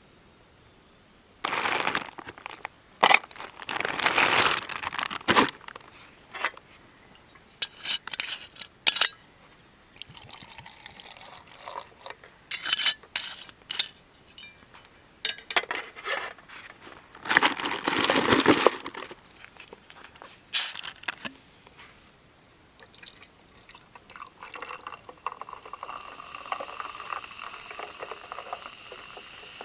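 Short bursts of handling noise, then liquid pouring steadily near the end.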